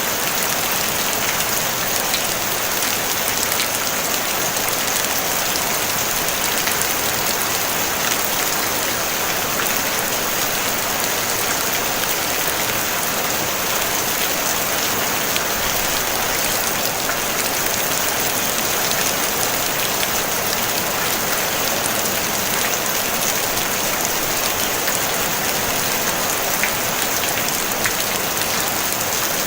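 Steady rain drumming on a tin roof: a dense, even hiss of drops with faint individual ticks, without thunder.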